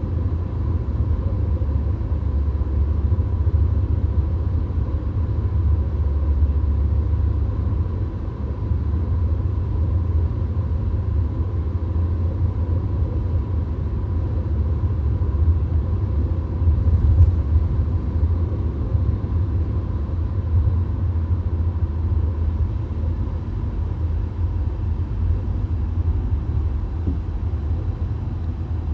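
VW Golf cruising on a motorway, heard from inside the cabin: a steady, deep rumble of road and engine noise with an even hiss above it.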